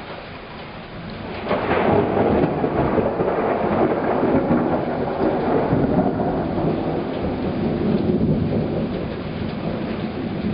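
Thunder during a heavy summer downpour: steady rain, then a sudden loud crack of thunder about a second and a half in that rolls on as a long rumble, easing a little near the end.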